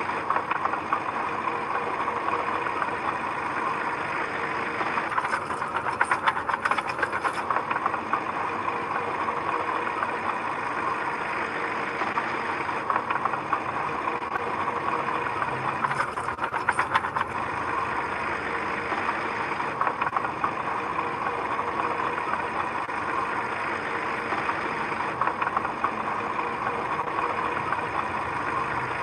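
Diesel engine of heavy earthmoving machinery running steadily, with two spells of rapid rattling, about five seconds in and again around sixteen seconds.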